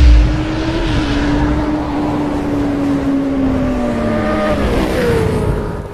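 Motorcycle engine sound effect for an animated logo intro: a low boom at the start, then one sustained engine note that slowly sinks in pitch, with a brief higher note bending down near the end.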